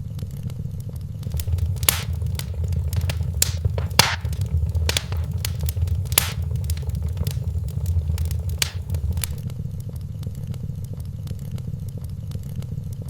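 Wood fire burning in a fireplace, crackling and popping over a steady low rumble of the flames. A few louder pops come about 2, 4 and 6 seconds in, and the crackle thins out near the end.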